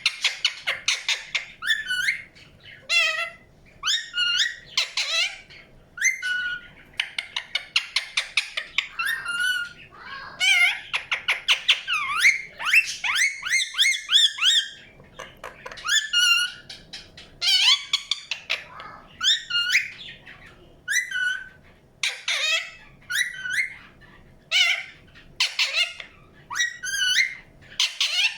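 Indian ringneck parakeet chirping and chattering: a constant run of short, shrill calls, some slurred up and down in pitch and some fired off in quick rapid series.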